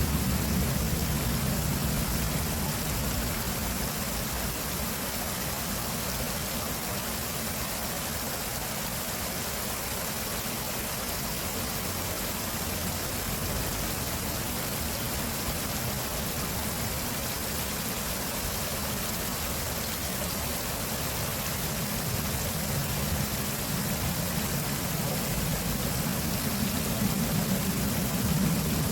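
Flowing water rushing steadily, like a stream or small waterfall, with a deep low rumble under the hiss.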